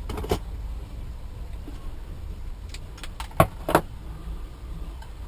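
Sharp clicks and taps of small hand tools and wiring parts being handled on a workbench: a couple at the start, then a cluster of four or five a little past halfway, the loudest of them close together. A low steady hum runs underneath.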